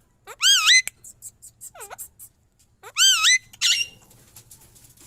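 Alexandrine parakeets calling: two loud, wavering screeches, one just after the start and one about three seconds in, with shorter falling calls and a few faint clicks between them.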